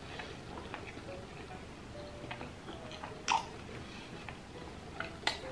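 Faint eating sounds from a person chewing, with scattered small mouth clicks and smacks; a sharper click comes about three seconds in and another near the end.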